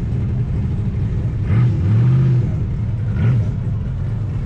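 Car engine idling with a deep exhaust rumble, its throttle blipped three times so the pitch swells up and falls back, the middle rev the longest.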